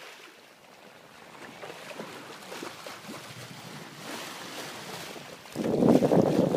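Wind and water hiss aboard a sailboat under way. About five and a half seconds in, heavy wind buffeting on the microphone starts and grows much louder, gusting unevenly.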